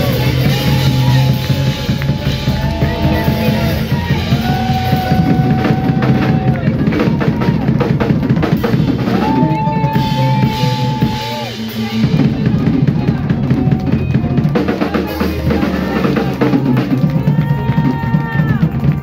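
Band music with a drum kit keeping a steady beat under long held lead notes that bend at their ends.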